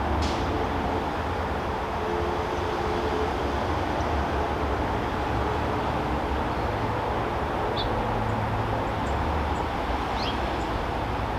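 Steady backyard ambience: a constant low rumble like distant traffic or machinery, with a few short high chirps about a second in, near 8 seconds and near 10 seconds.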